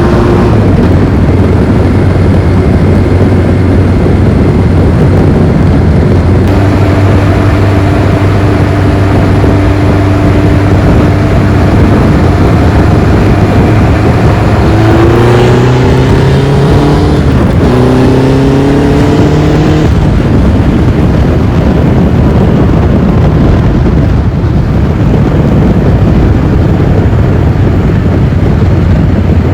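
Honda CB-series four-cylinder motorcycle engine running steadily through its exhaust muffler, revved up twice about halfway through, the pitch rising and then settling back.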